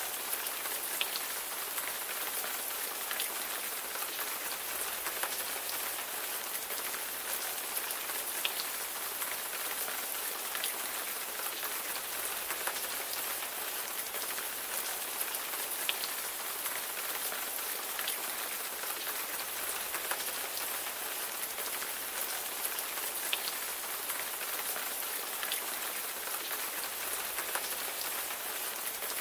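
Steady rain falling on a surface: an even hiss with many individual drops ticking sharply through it.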